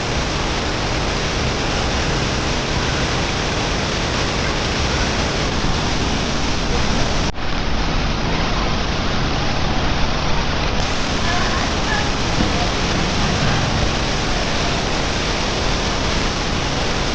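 Waterfall pouring into its plunge pool: a loud, steady rush of falling water, with a momentary dip about seven seconds in.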